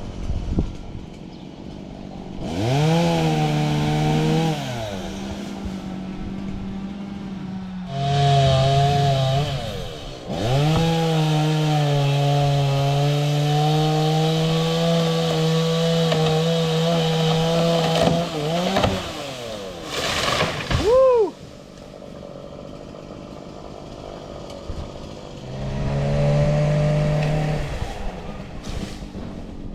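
Chainsaw idling between revs, opened up briefly about 3 s in, then run at high revs through a long cut of about ten seconds, with a quick sharp rev near 20 s and another rev near the end.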